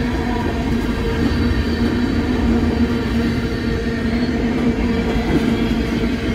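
A train running by: a steady hum over continuous rolling noise, holding an even level throughout.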